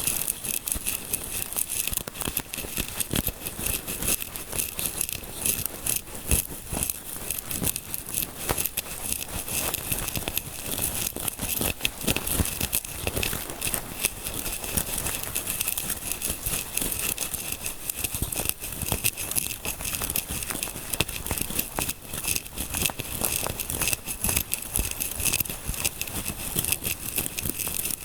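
Fingers scratching and rubbing close to the microphone, as in a scalp massage, making a dense, continuous crackly rustle of rapid tiny clicks.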